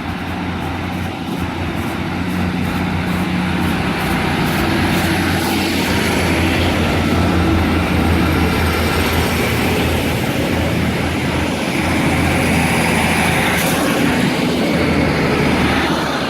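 Class 150 and Class 156 diesel multiple units pulling away under power, their diesel engines giving a steady low drone that builds slightly as the train gets under way.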